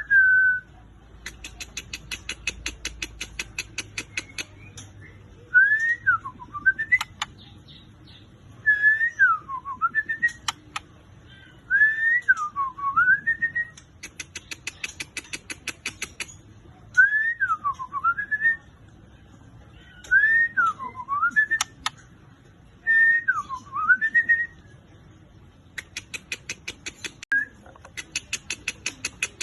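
White-rumped shama singing: runs of fast, high ticking chatter alternate with six loud, clear whistles, each swooping down in pitch and back up.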